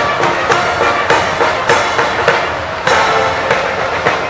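Band music: a march with a steady drum beat a little under two strikes a second under sustained instrumental chords.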